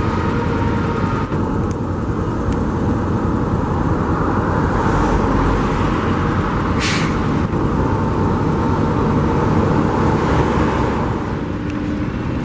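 Construction trucks running nearby: a steady, loud engine and traffic rumble that swells in the middle, with one short, sharp hiss about seven seconds in.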